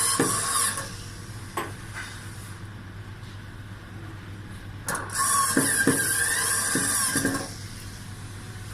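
Electric screwdriver whirring in two bursts, one stopping under a second in and a longer one from about five seconds to seven and a half, driving screws back in to secure a newly fitted microwave magnetron.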